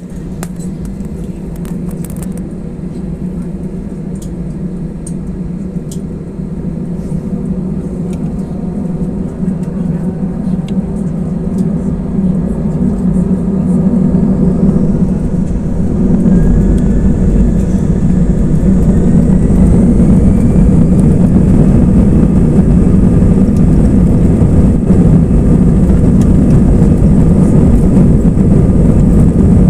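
Airbus A320 jet engines heard from inside the cabin, spooling up with faint rising whines and growing steadily louder for about fifteen seconds. They then hold steady at high thrust with a deep rumble, as at the start of the takeoff roll.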